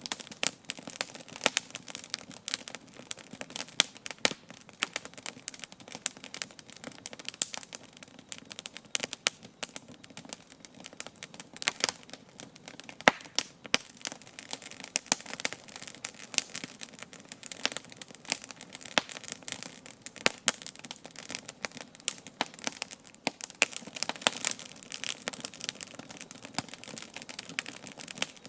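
Campfire crackling, with a steady stream of irregular sharp pops and snaps.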